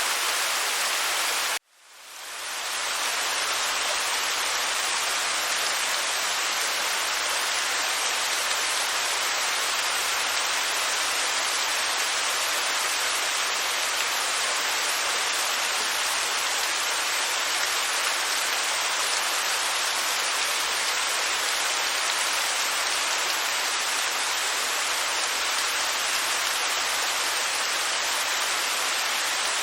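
Waterfall, a steady hissing rush of falling water. About a second and a half in it cuts to silence and fades back up over about a second, then runs on evenly.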